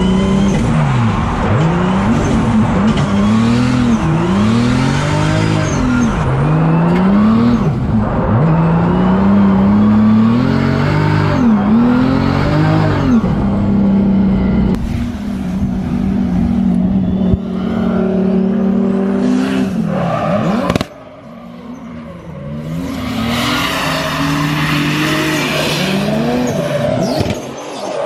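Drift car engine revving hard, its pitch repeatedly climbing and falling as it is worked through the rev range, with tire squeal. The sound drops away suddenly about three quarters of the way through, then builds again.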